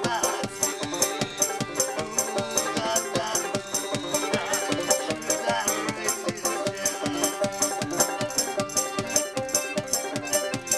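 Live folk-punk song played acoustically, banjo-driven, with a shaker keeping a steady beat of about three strokes a second.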